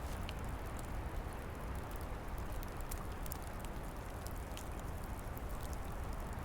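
Wood fire crackling, with scattered sharp pops, over a steady rush of wind.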